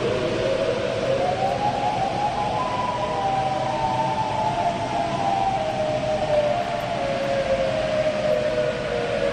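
Outdoor warning siren sounding, its pitch rising over the first two seconds or so, then slowly falling, over a steady rushing noise.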